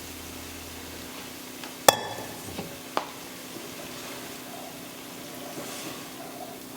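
Kitchen utensil sounds while cooking: about two seconds in, a utensil strikes a pot or dish with one sharp, ringing clink, followed by two lighter knocks. A faint steady frying sizzle runs underneath.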